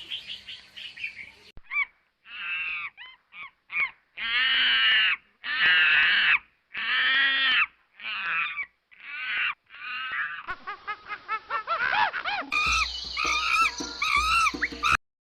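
Birds calling: a string of separate loud calls, each about half a second to a second long, giving way near the end to rapid short chirps over a low hum.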